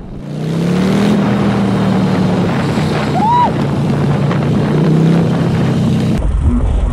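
Harley-Davidson Sportster V-twin running under way, its pitch climbing as it accelerates in the first second and then holding steady, with wind buffeting the microphone. Near the end the sound changes abruptly to a deeper, lower engine rumble.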